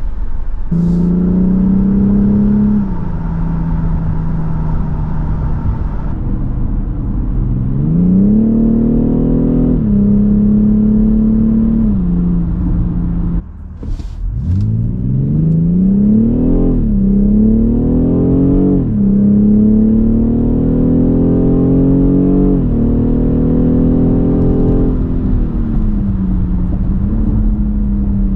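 BMW X6 xDrive40i's turbocharged 3.0-litre inline-six accelerating under load, its pitch climbing and then dropping at each gearshift, several times over. About halfway through the sound dips briefly, then the pitch climbs again from low, as when pulling away.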